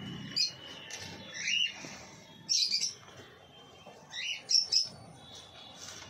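Birds chirping: a series of short, high chirps spaced about a second apart, a couple of them coming in quick pairs.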